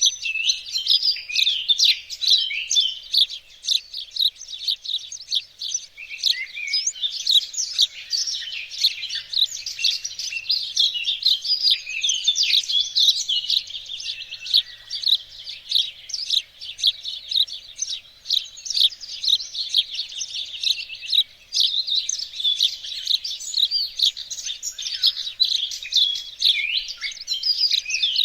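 Several songbirds singing and chirping continuously, a dense, overlapping chorus of high, quick trills and tweets.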